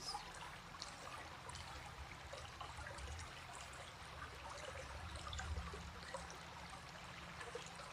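Recorded stream water flowing and trickling steadily, a soft continuous babble.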